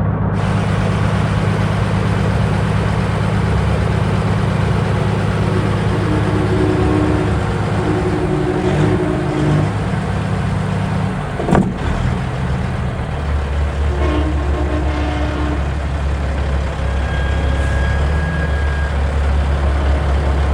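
Heavy diesel semi-truck engine running steadily with a deep, even drone. About two-thirds of the way through, the note drops to a lower, heavier rumble.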